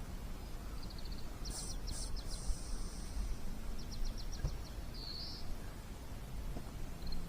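Small birds calling: a few short, rapid high trills and chirps over a steady low rumble of outdoor background noise.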